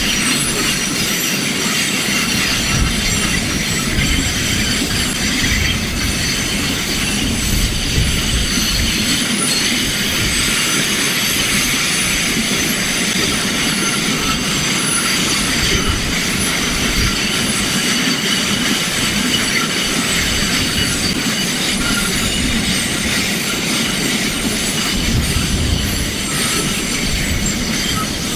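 Sugar cane train on 2 ft gauge track rolling past: a continuous heavy rumble of wagons with steady high-pitched wheel squeal over it.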